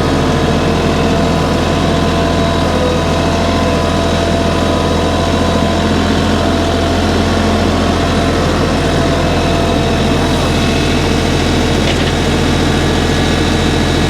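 Tractor engine running steadily at an unchanging speed.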